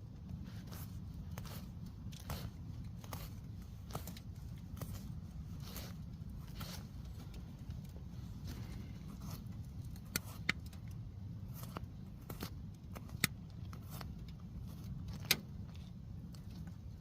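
Tent wood stove fire crackling, with irregular sharp pops and clicks over a steady low rumble; a few louder cracks in the second half.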